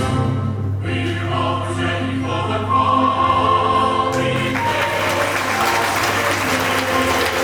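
Music: a group of voices singing held notes over instrumental accompaniment, growing fuller and noisier from about halfway through.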